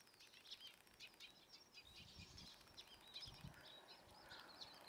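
Faint chirping of small birds: many quick, high calls and trills, overlapping one after another.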